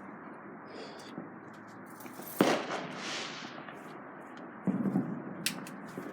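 Fireworks: one sharp loud bang about two seconds in, followed by a fading hiss. A few softer thuds and clicks come near the end.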